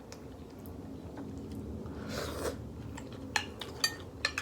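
Close-miked eating: biting and chewing food, with a few sharp clicks in the last second and a half.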